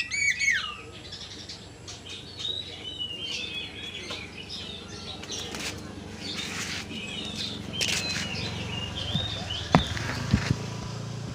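Oriental magpie-robin singing: a loud whistled phrase falls away right at the start, followed by softer scattered chirps and twitters. A few short rustling bursts are mixed in, and two sharp knocks come near the end.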